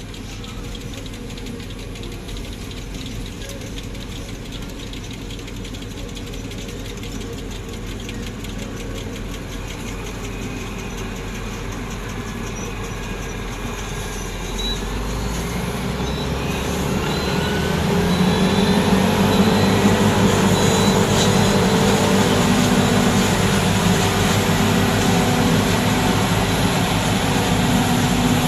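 Tractor engine running a silage cutting machine, getting steadily louder, then revving up with a rising whine about fifteen to eighteen seconds in and holding at the higher speed.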